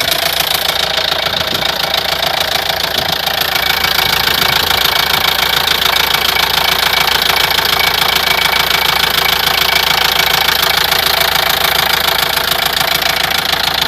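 Opel Vivaro's 1.9 F9Q four-cylinder diesel running at a steady speed with a knock from inside the engine, which the owner puts down to a spun bearing shell.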